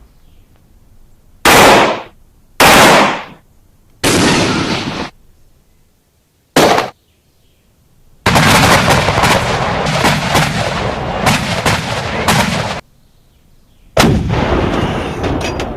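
Gunshots: four separate shots, each cutting in sharply and dying away, then a run of rapid automatic fire lasting about four and a half seconds, then one more shot near the end with a long echoing tail.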